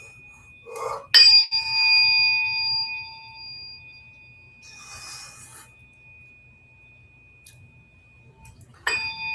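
Tuning forks struck about a second in and left ringing, several clear steady tones fading over a few seconds, with a faint high tone sustained throughout; the forks are struck again near the end. In biofield tuning, dissonance in the ringing tone is taken as a sign of disturbed energy.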